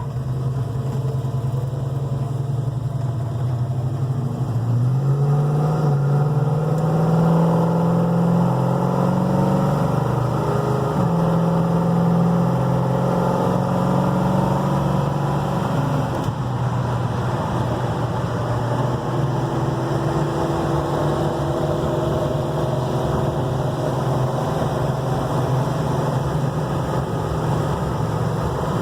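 A 1969 Dodge Charger's 440 big-block V8 with an automatic transmission is driven on the road. About four seconds in it picks up under acceleration, its pitch rising in steps. About midway the pitch drops, and it settles to a steady cruise.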